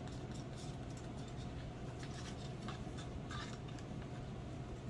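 Light scratchy rustling and scattered soft clicks of takeout food containers and sauce being handled, over a steady low hum.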